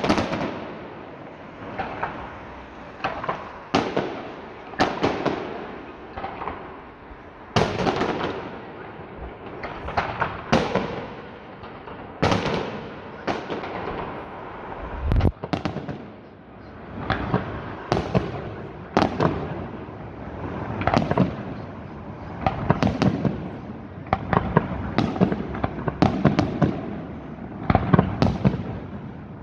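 Fireworks display going off: a long run of sharp bangs, about one every second or so, many of them trailing into crackling.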